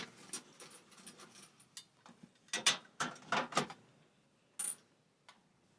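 Dryer parts being handled and fitted during reassembly: a run of light clicks, then a quick cluster of knocks and clatter about two and a half seconds in, and one more knock near the end.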